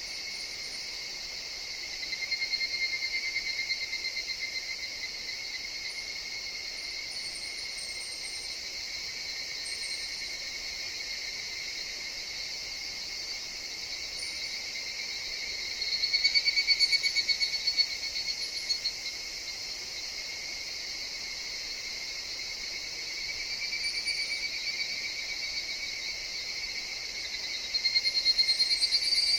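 Higurashi (evening cicadas) calling in bouts of rapid pulsing trills that swell and fade over a few seconds, four times, over a steady chorus of insects.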